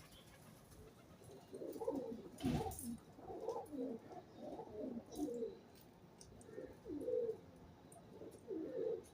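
Pigeons cooing: several low, rolling coos overlap, one after another. A brief noisy thump or flutter comes about two and a half seconds in.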